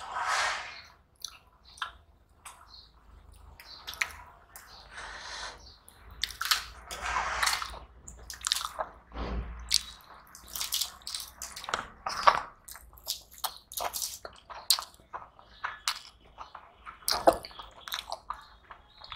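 Close-miked chewing and wet mouth smacks of people eating, with the squish of fingers mixing rice and dal on a steel plate, in short irregular bursts.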